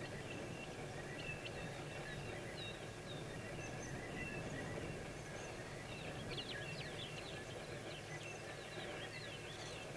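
Small birds chirping and trilling faintly over a low, steady background rumble, with a flurry of quick chirps about six seconds in.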